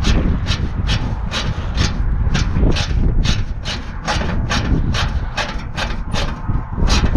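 Ratchet wrench being worked in quick strokes, about two rasping clicks a second, tightening the bolts that hold a loose RV awning, over low wind rumble.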